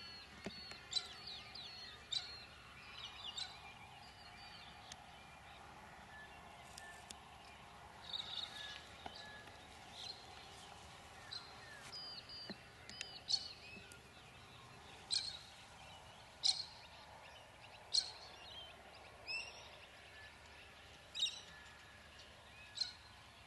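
Birds calling: whistled, warbling notes at first, then sharp single chirps every second or two, over a faint steady background.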